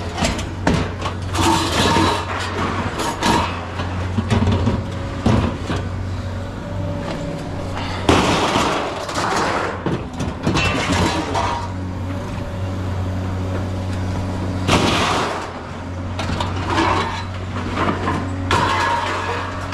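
Irregular metallic clanks and bangs, typical of scrap metal being handled and dropped, over a steady low engine-like hum.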